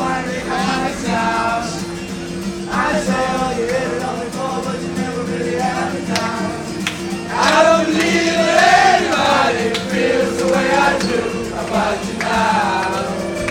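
Several voices singing a song together over steady held chords. The singing grows louder and fuller about halfway through.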